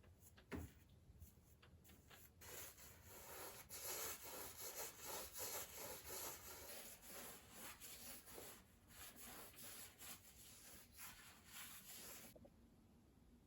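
Scrubbing a hard surface by hand in fast, repeated back-and-forth rubbing strokes, starting a couple of seconds in and stopping abruptly near the end. A soft knock comes just after the start.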